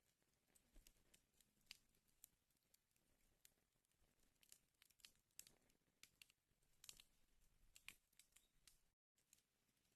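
Faint wood fire crackling in a fireplace: irregular sharp snaps and pops over a soft hiss.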